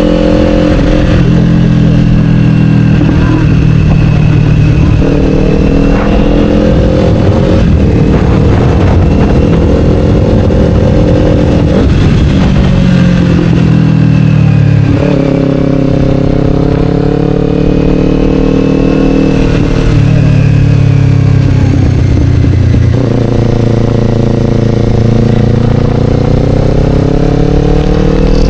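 Kawasaki Ninja 500 parallel-twin running through an Akrapovic slip-on exhaust while being ridden. The engine note holds or climbs slowly, then jumps abruptly to a new pitch every few seconds, as revs change with gear shifts and throttle.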